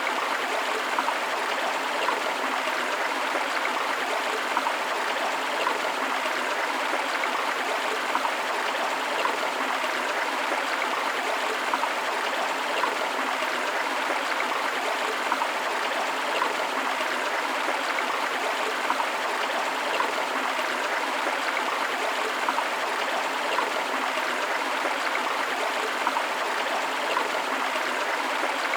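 A forest river flowing steadily over rocks: a constant rushing of water, flecked with small splashes and gurgles.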